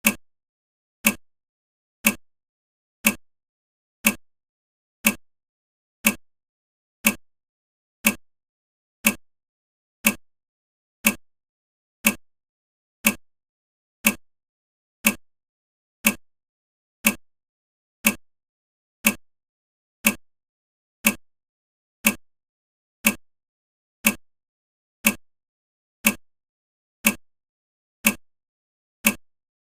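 Sharp ticks, one each second and evenly spaced, each dying away quickly.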